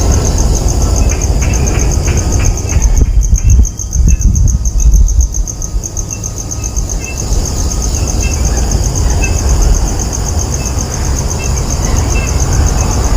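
Insects trilling steadily in rapid, even pulses, over a loud low rumble.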